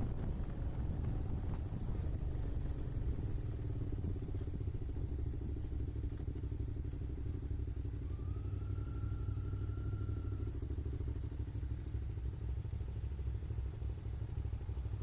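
Motorcycle engine running at a steady, even speed. About eight seconds in, a faint high tone sounds for a couple of seconds.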